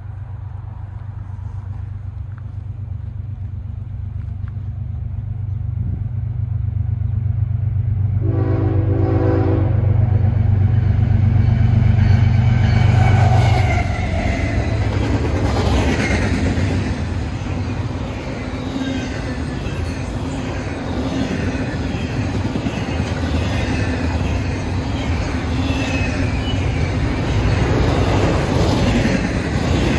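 A GE ES44AH diesel locomotive on a double-stack intermodal train comes up and passes: its steady low engine drone grows louder, and it sounds one short horn blast about eight seconds in. After the locomotive passes, the container cars roll by on steel wheels, with the rolling noise swelling and easing.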